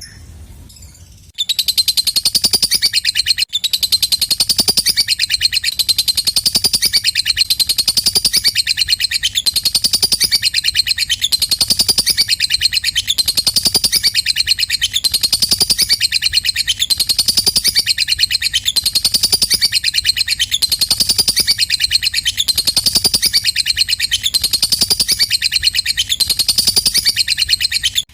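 Lovebird ngekek: one long, unbroken, rapid high-pitched chattering trill, starting about a second in. A rising-and-falling phrase repeats evenly, roughly once a second.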